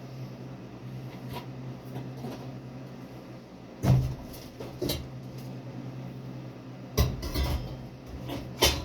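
Several sharp knocks and clunks over a steady low hum; the loudest come about four seconds in, around seven seconds in, and just before the end.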